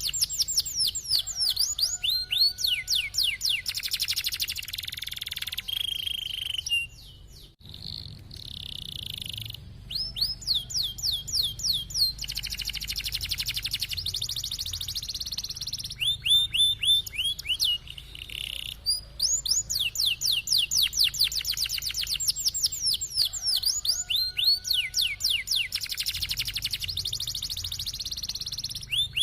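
Domestic canary singing a long song of rapid trills: fast runs of repeated sweeping notes that shift between higher and lower phrases, with a brief break about seven seconds in.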